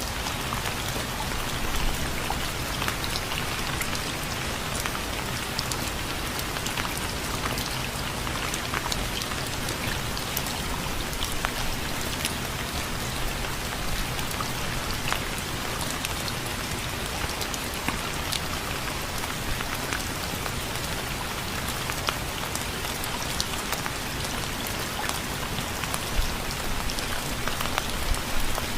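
Steady rain falling, with many distinct drops ticking on a surface over a continuous hiss.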